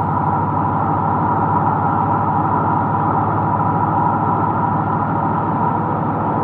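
Car on the move: a steady engine drone with road and tyre noise.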